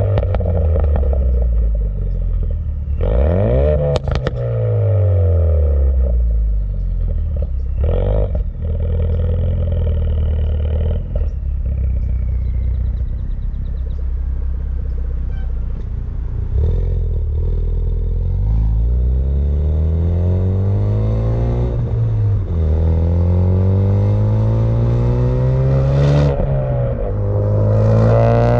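Ford Focus RS 2.3-litre turbocharged four-cylinder running through a Cobb cat-back exhaust. In the first half the engine revs up and falls back twice. From about halfway it accelerates through the gears, the pitch climbing and then dropping at each upshift.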